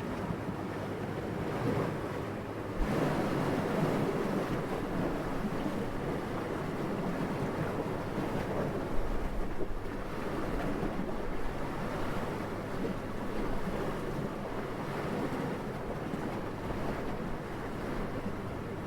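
Soft, steady wind rushing, with a low, even noise that swells and eases in slow gusts and grows stronger about three seconds in.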